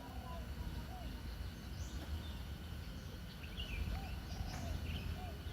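Several birds giving short chirps and small arched whistle calls, repeated every second or so, over a steady low rumble.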